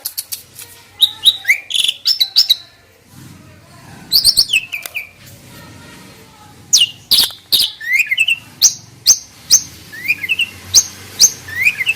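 Starling (jalak) calls: a run of loud, sharp whistles, chirps and clicks. There are short pauses about three and five seconds in, then the notes repeat steadily about twice a second.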